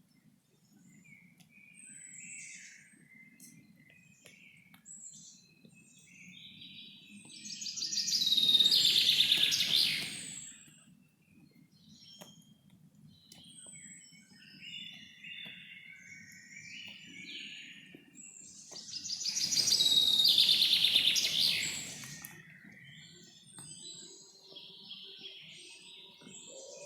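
Birds chirping and singing, with two loud, dense bouts of song about 8 and 20 seconds in and scattered short calls between them, over a faint low rumble.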